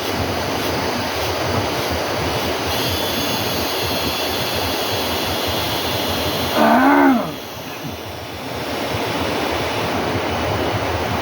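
Steady rushing outdoor noise, the kind made by flowing water or wind. About two-thirds of the way through comes one short, loud, pitched call that bends up and down, after which the rushing briefly drops and builds back.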